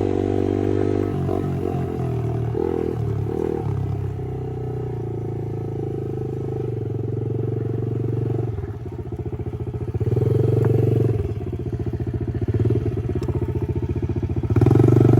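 Pit bike engines running, the pitch shifting as the throttle changes, with louder swells about two-thirds of the way in and again at the end as bikes come closer.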